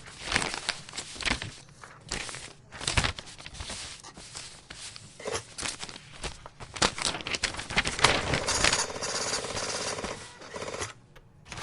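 Computer keyboard being typed on hard and fast, a rapid clatter of key strikes. About eight seconds in, a steadier buzzing stretch lasts nearly three seconds before it cuts off.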